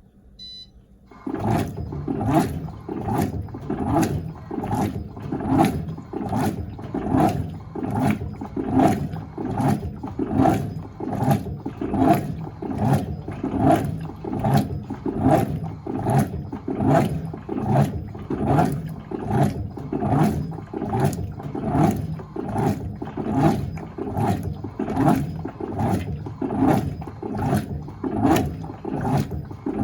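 Electrolux LTA15 top-loading washing machine agitating a load in water, in even churning strokes about one and a half a second that start about a second in.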